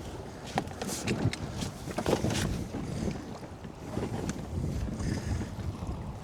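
Wind on the microphone and water against a small boat's hull, with a string of short sharp knocks and clatters, most of them in the first two and a half seconds, from handling gear and a freshly landed pollock on board.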